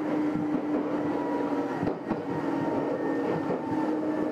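Nagoya Railway (Meitetsu) electric train running, with a steady whine and repeated sharp clicks over a rumble.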